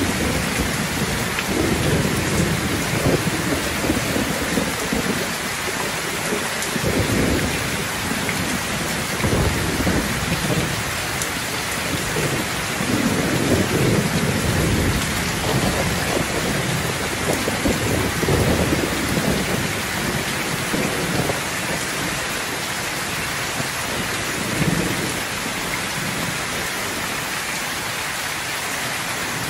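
Heavy, steady rain pouring down, with low rolling thunder rumbling on and off underneath.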